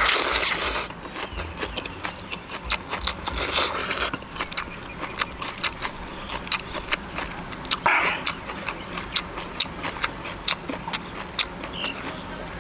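Someone eating: many small sharp clicks of chewing, with a few short louder crunches about every four seconds.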